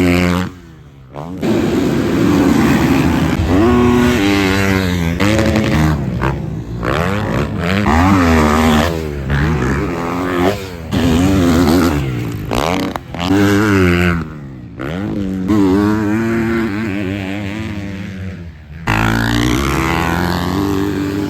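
Motocross motorcycle engines revving, their pitch rising and falling over and over as the riders work the throttle and gears. The sound breaks off abruptly several times and picks up again with another engine.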